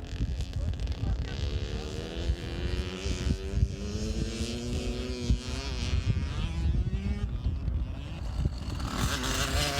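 Yamaha PW50 mini dirt bike's small two-stroke single-cylinder engine running, its pitch rising and falling as the throttle is worked, with wind buffeting the microphone.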